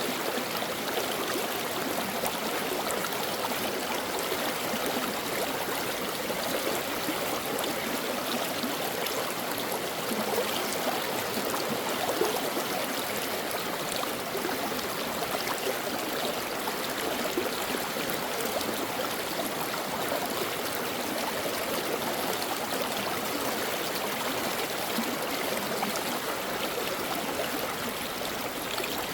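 Brook water flowing and babbling over stones, a steady, even rush.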